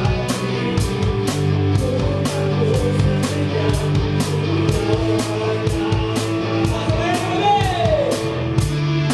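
Live rock band playing, heard from beside the drum kit: drums and cymbals keep a steady, evenly spaced beat over guitar.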